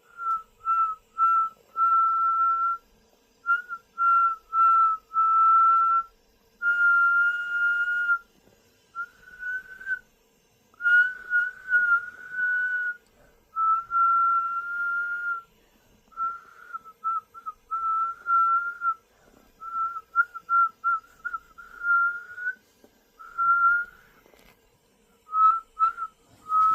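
A person whistling a series of short and longer notes, most on one nearly steady pitch, with gaps between them and a few quick warbling runs.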